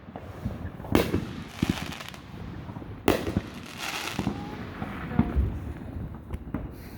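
Fireworks bursting overhead: a sharp bang about a second in and another about three seconds in, each followed by crackling, with smaller pops later on.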